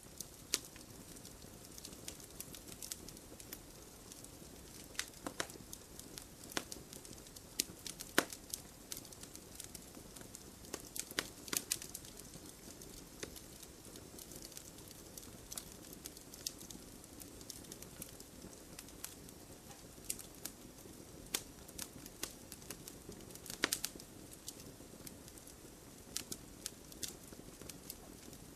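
Campfire burning, with frequent sharp, irregular crackles and pops over a steady low rush of the flames.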